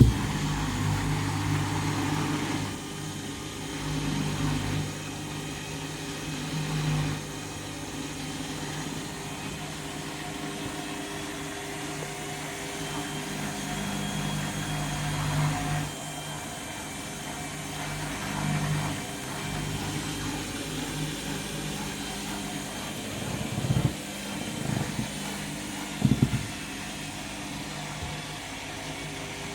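Candy washing machine spinning its load at 400 rpm on the final spin: a steady motor and drum hum that swells and eases a few times, with the load fairly balanced. A few short thumps come near the end.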